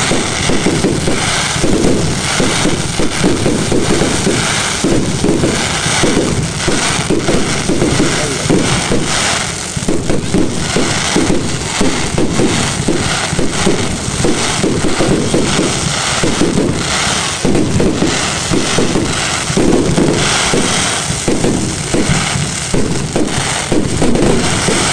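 Fireworks display: a dense, unbroken barrage of bangs and crackles, many per second.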